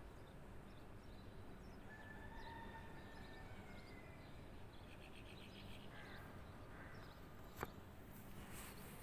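Faint birds calling over a low background hum: a couple of drawn-out whistled notes about two seconds in, then a quick trill of repeated notes midway and a few short chirps. A single sharp click near the end stands out above the rest.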